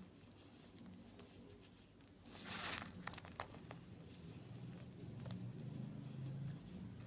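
White Reform gym chalk being crushed: a brief crumbling crunch about two seconds in, followed by a few sharp crackles as pieces break.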